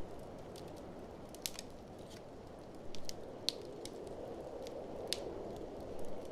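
Wood fire crackling in a fireplace, with irregular sharp snaps and pops over a steady low rush of blizzard wind.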